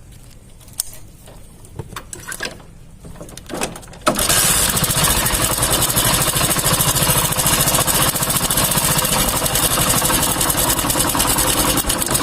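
Hero Honda Passion Plus single-cylinder four-stroke engine starting about four seconds in, after a few light knocks, then idling steadily with a fast 'chhik chhik' chatter from the timing chain, which is still noisy although the chain is new: the mechanic traces it to a faulty cam-chain tensioner.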